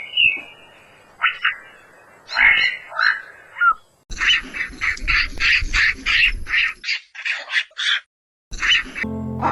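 Short, high-pitched animal calls repeated in quick runs, at times about four a second, broken by a brief silence near the end.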